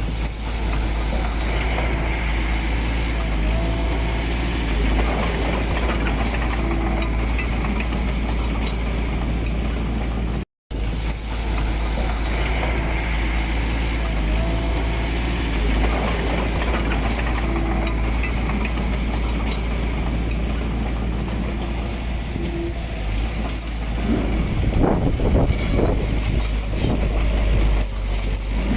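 Diesel engine of heavy earthmoving machinery running steadily with a deep rumble, a little louder with some rattling near the end. The sound cuts out completely for an instant about ten seconds in.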